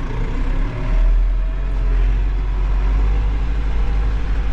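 Diesel tractor engine pulling as the tractor drives, heard from inside the cab. Its deep rumble swells about a second in, with a faint rising whine over it.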